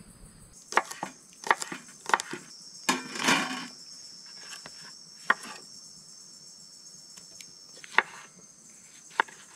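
A knife chopping vegetables on a board in single, irregular cuts, with a longer rustling scrape about three seconds in. An insect keeps up a steady high-pitched drone through the middle.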